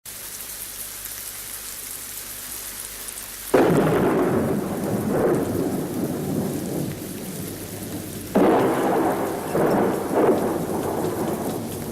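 Steady rain falling with two loud peals of thunder, the first about three and a half seconds in and the second about eight seconds in, each rumbling on for a few seconds.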